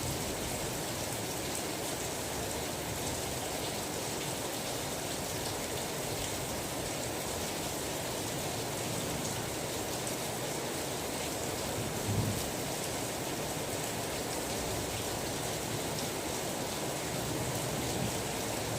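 Steady rain falling, an even hiss of drops. About two-thirds of the way through there is one brief low thump.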